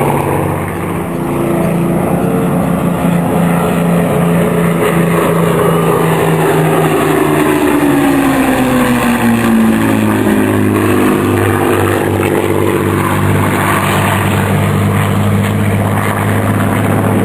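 World War II piston-engined warbirds of the Battle of Britain Memorial Flight flying a display pass, their propeller engines droning steadily. The engine note falls in pitch as they go by about halfway through.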